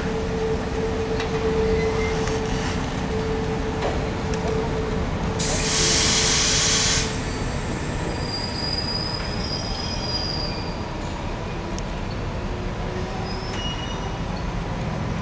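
Freight train hauled by an SBB Ae 6/6 electric locomotive rolling past, with a steady rumble, a steady whine over the first half and high wheel squeals later on. About five seconds in a loud hiss lasts about a second and a half.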